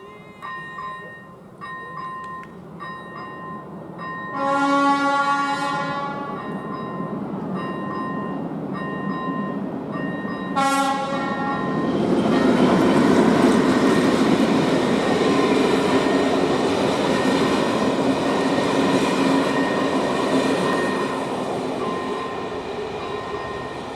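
Level crossing's electronic warning bell pulsing steadily while an approaching passenger train sounds its horn twice, a long blast then a short one, before passing over the crossing with a loud running rumble that eases off near the end.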